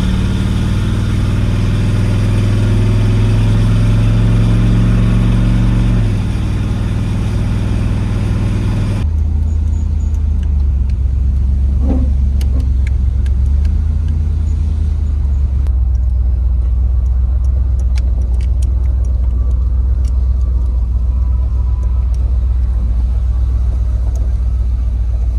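A motor vehicle's engine running with a steady low drone. The drone changes pitch about six seconds in, and the higher hiss over it drops away suddenly about nine seconds in.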